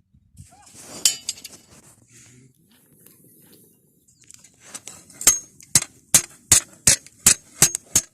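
Hammer striking steel: a run of about eight sharp, ringing blows, roughly two and a half a second, starting about halfway through, after a few lighter metallic clinks.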